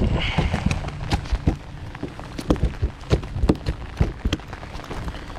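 Heavy rain pouring down, with big drops striking close to the microphone as irregular sharp taps several times a second.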